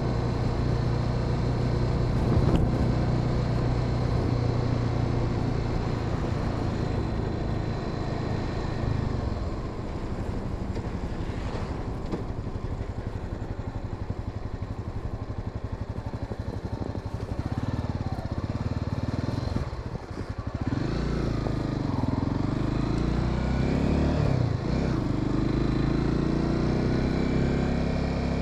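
Honda Sahara 300's single-cylinder engine running while the motorcycle is ridden. The revs ease off about a third of the way in, dip briefly past two-thirds, then climb again in rising sweeps as it accelerates through the gears.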